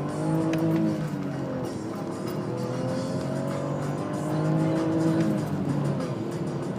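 BMW 520i E39's straight-six engine under hard acceleration, revs climbing through the gears. The pitch rises, drops at an upshift about a second in, climbs again, and drops at another shift about five and a half seconds in before rising once more.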